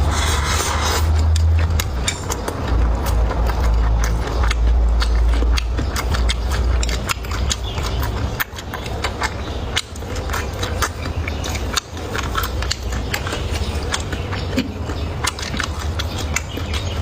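Close-miked chewing and mouth sounds of someone eating, with frequent sharp clicks and smacks. A deep low rumble runs through about the first seven seconds.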